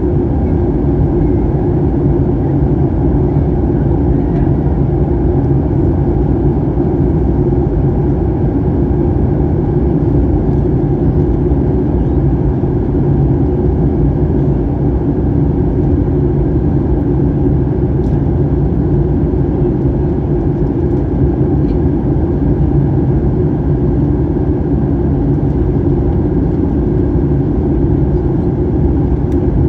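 Steady drone inside the cabin of a Boeing 737-800: its CFM56-7B turbofan engines and rushing air heard through the fuselage, an even, deep rumble that does not change.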